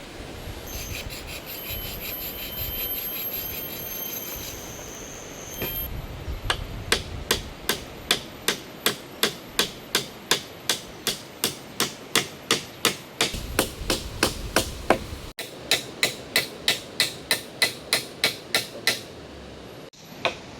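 Hammer driving nails into wood in an even run of blows, about two to three a second. Before it comes a few seconds of rasping with a high steady tone.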